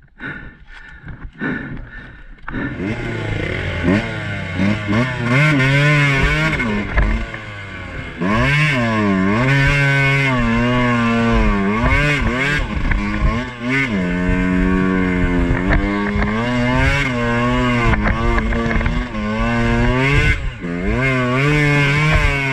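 Two-stroke dirt bike engine under way, revving up and down again and again as the rider works the throttle; it comes in loud about two and a half seconds in after a quieter start.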